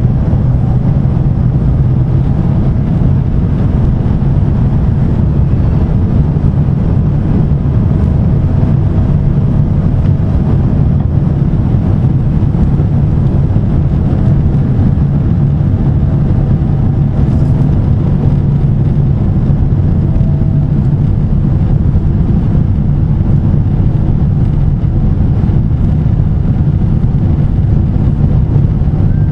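Steady low rumble of a Boeing 767 in flight, heard inside the passenger cabin: engine and airflow noise, with a faint steady hum above it.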